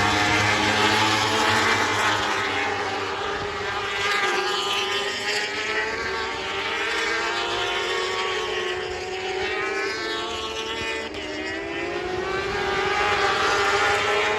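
Several superbike engines running at high revs, passing by. Their overlapping notes rise and fall in pitch as they go.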